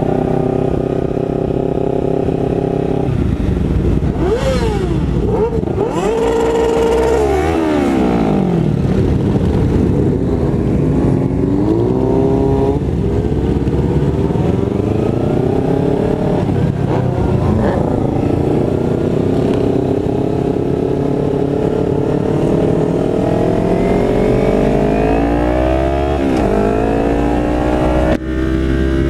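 Kawasaki Ninja 300 parallel-twin with a Hotbodies MGP Growler exhaust under way. It holds a steady speed at first, then the revs drop and climb again several times through gear changes, with a long rising pull and upshifts near the end.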